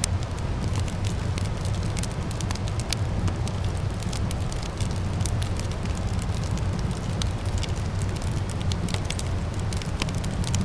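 Wood fire in a fireplace crackling, with frequent sharp pops and snaps scattered irregularly over a steady low rumble.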